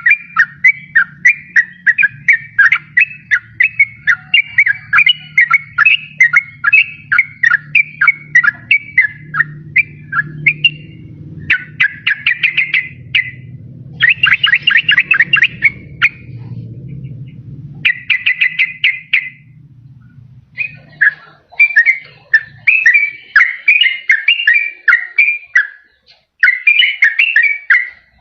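Sooty-headed bulbul (trucukan) singing: a rapid, chattering string of short whistled notes, broken in the middle by several fast trills. There is a brief pause about twenty seconds in before the song resumes, and a faint low hum sits under the first part.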